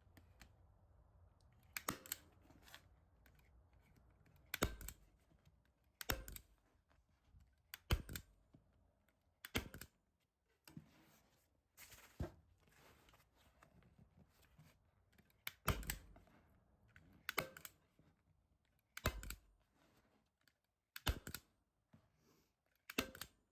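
A hand staple gun (Arrow JT21) driving staples, about eleven sharp snaps spaced one to three seconds apart, as upholstery vinyl is stapled onto a chair seat.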